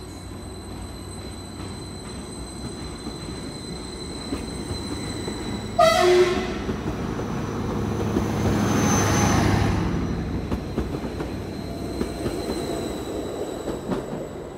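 Greater Anglia Class 755 multiple unit pulling out and running past close by, its rumble and wheel noise swelling to a peak then easing off. A short horn blast sounds about six seconds in, the loudest moment, over a thin steady high whine.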